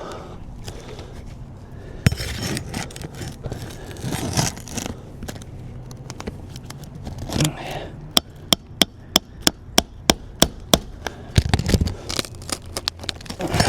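Hand tools working asphalt roof shingles: the crackle and scrape of shingles being pried up, with a sharp knock about two seconds in. Past the middle comes a quick run of about a dozen sharp metal taps, roughly three a second: a framing hammer striking a roof snake to drive it under the shingle nails.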